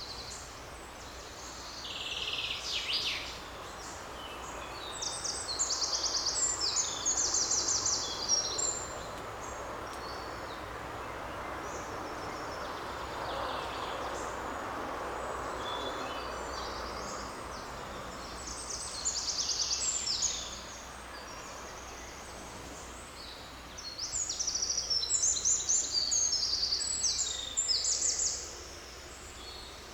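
Songbirds singing in bursts of fast, high trills, four spells of song with gaps between, over a steady rushing forest background that swells slightly midway.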